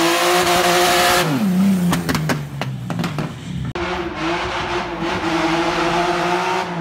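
Car engine held at high revs. The revs drop about a second in, followed by a run of sharp exhaust pops and crackles. Near the middle the sound cuts abruptly back to the engine held at high revs.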